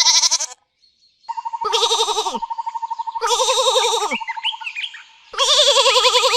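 Bleating from a goat or sheep: a short call, then three longer quavering calls about a second apart. A steady thin whistle-like tone runs beneath the middle calls.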